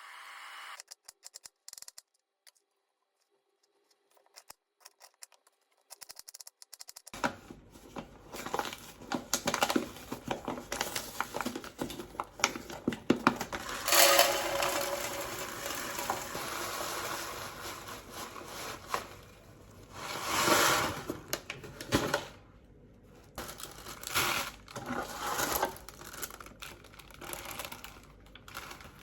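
Kitchen handling sounds: crinkling, rustling and the clatter of dishes and utensils, very faint at first and busier after about seven seconds.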